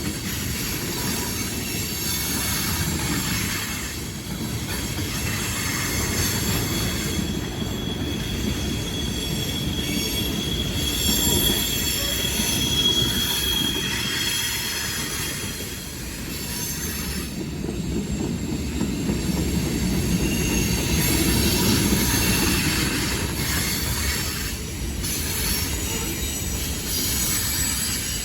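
A train rolling past: a steady rumble of wheels on rail, with a high wheel squeal held for several seconds near the middle.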